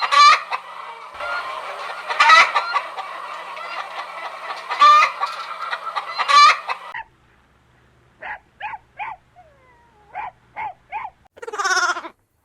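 A flock of chickens clucking all together, with loud squawks about every two seconds. After about seven seconds it gives way to a quieter run of short, separate bird calls, ending in one louder call.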